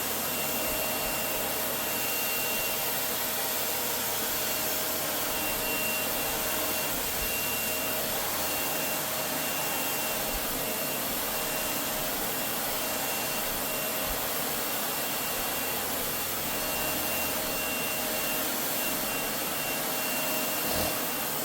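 Vacuum cleaner running steadily, sucking up cut hair from the floor, with a constant whooshing hum and a faint steady whine.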